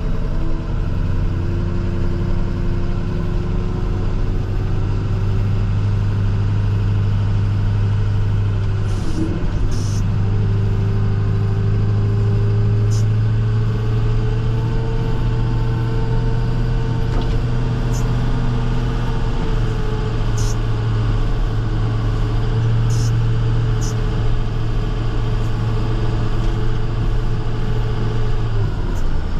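International TerraStar plow truck's diesel engine running steadily under load, heard from inside the cab as a deep drone with a whine that climbs slowly in pitch through the middle and falls away near the end. A few faint ticks sound over it.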